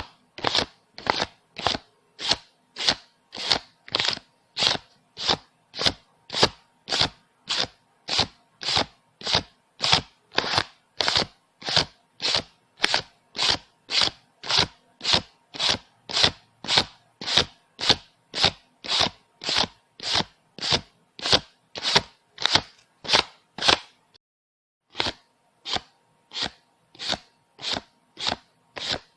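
Paper banknotes being counted by hand, each bill flicked or snapped off the stack in a quick, crisp stroke, about two a second at an even pace. The rhythm breaks for about a second near the end, then resumes.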